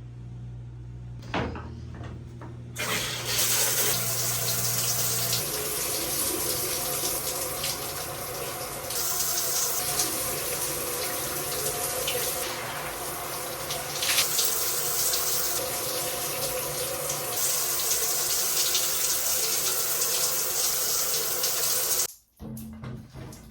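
Water running steadily from a tap, starting about three seconds in and cutting off suddenly near the end.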